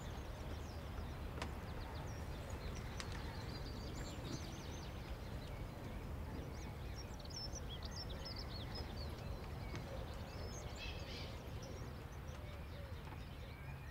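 Outdoor ambience: several small birds chirping with many short, high calls over a steady low rumble.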